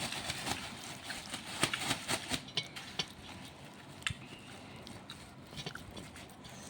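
A pet parrot eating: a scatter of faint clicks and crunches from its beak on the food, thickest in the first couple of seconds and sparser after.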